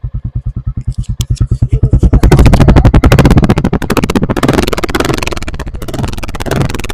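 Royal Enfield Bullet 350's single-cylinder four-stroke engine running just after starting, first idling with an even thump of about eight to ten beats a second, then speeding up and getting louder about two seconds in as the engine is revved.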